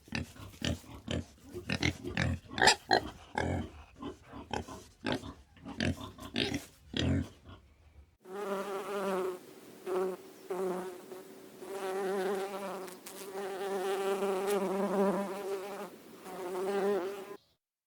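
A rapid series of short animal grunts, about two a second. A sudden cut then brings in a buzzing insect, a steady buzz that swells and fades several times before stopping abruptly.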